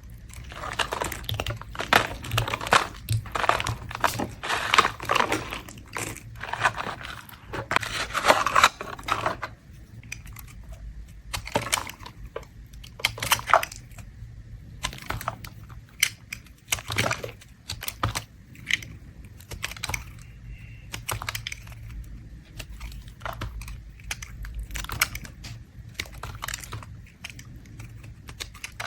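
A blade scraping and shaving bars of mint soap: crisp, crackly strokes come thick and fast for roughly the first ten seconds, then turn into sparser, lighter scrapes and ticks.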